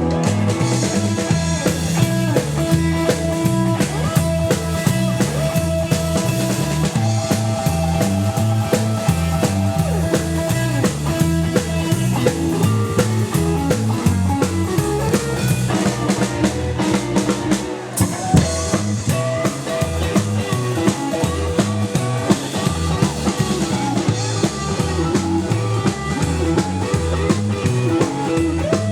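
Live rockabilly trio playing: double bass, electric lead guitar and a drum kit keeping a steady beat, with no vocal line picked up.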